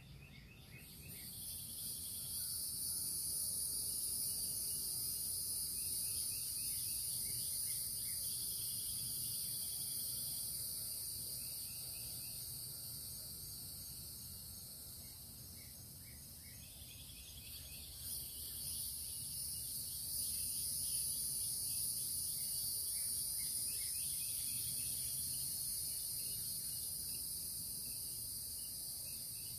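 Steady, high-pitched chorus of insects trilling at dawn, swelling in about a second in, easing off briefly past the middle and then coming back, with faint repeated chirps beneath it.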